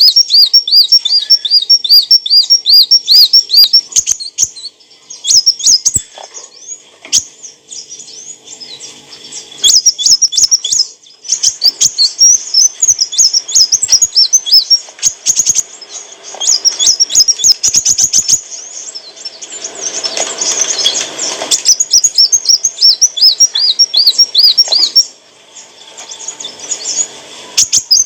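Kolibri wulung sunbird singing: high, rapid chirping notes repeated in fast trills, several notes a second, delivered in phrases broken by short pauses.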